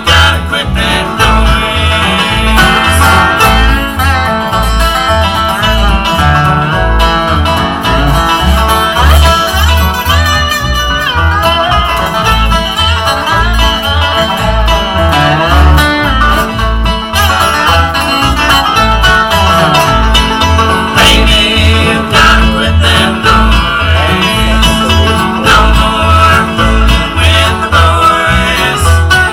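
Bluegrass string band playing an instrumental passage: banjo and guitar picking over a steady bass beat, with a fiddle line at times.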